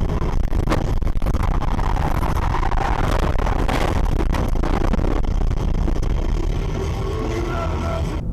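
Road and engine noise of a moving car picked up by a dashcam: a steady low rumble, with a few sharp knocks about a second in and again three to four seconds in.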